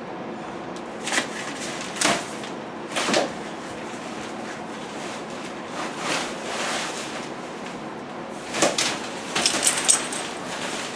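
A series of short scrapes and knocks from something being handled or moved, about half a dozen spread through, with a busier cluster near the end.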